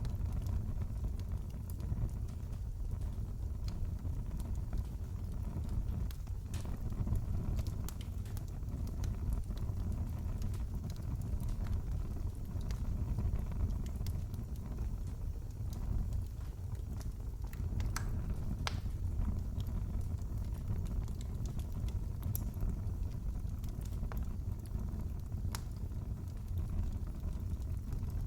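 Fireplace fire crackling: a steady low rumble with scattered sharp pops and snaps.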